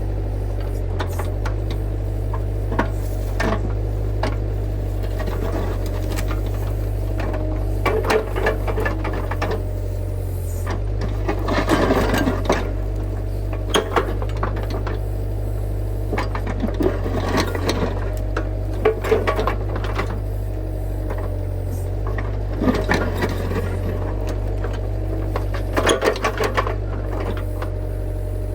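Excavator engine running steadily, with irregular clanks and knocks as the bucket digs into the ground.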